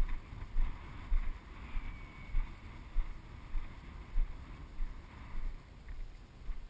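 Footsteps of a person walking on the ground, a low thump about every half second, with wind on the microphone.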